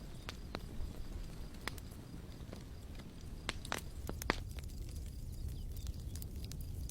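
Wood campfire crackling: irregular sharp pops over a low steady rumble, the loudest pops a little past the middle.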